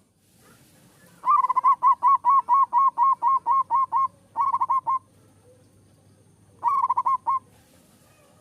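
Zebra dove cooing: a fast run of about a dozen clipped, hooked coos, then two short runs of a few coos each a moment later.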